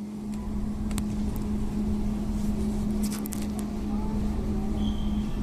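Steady vehicle drone: a constant low hum over a rumble, with a few faint clicks and a short high beep near the end.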